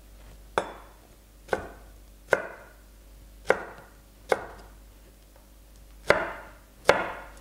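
Kitchen knife chopping pineapple flesh on a cutting board: seven separate knife strikes at an uneven pace of about one a second, each with a short ringing tail.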